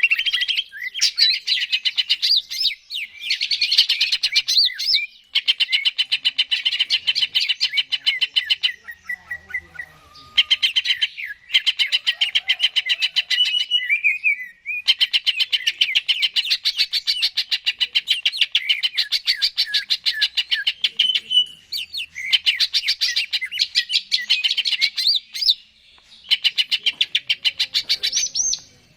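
Greater green leafbird (cucak ijo) singing in long phrases of rapid repeated notes, each run lasting a few seconds with brief pauses between.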